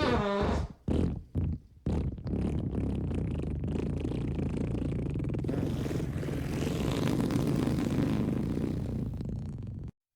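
Fart sound effects: a short fart with a bending pitch, two or three brief blasts, then one long, rough, low fart of about eight seconds that cuts off suddenly.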